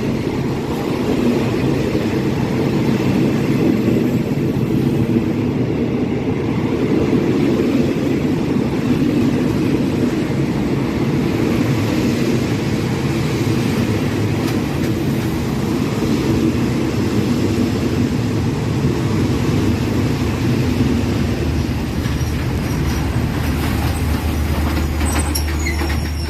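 Train running steadily along the track, a constant dense noise with a low hum coming in near the end.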